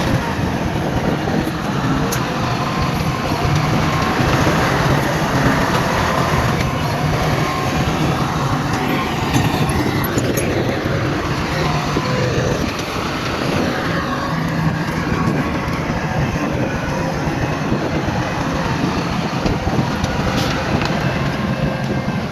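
Heavy diesel earthmoving machinery running steadily, a low engine drone under a noisy haze, with a few faint knocks.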